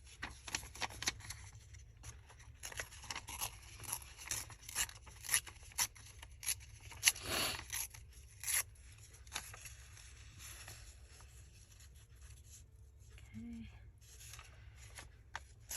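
Paper being handled and worked at a craft table: a dense run of crisp rustles and sharp clicks for the first nine seconds or so, then quieter, sparser handling.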